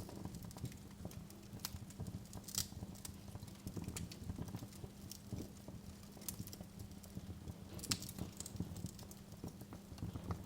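Wood fire in a fireplace crackling: irregular sharp pops and snaps over a steady low rumble, the loudest pop about eight seconds in.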